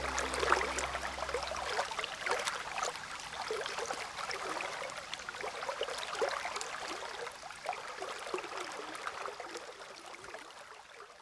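A small stream trickling and gurgling, fading out gradually. The low tones of soft background music stop about two seconds in.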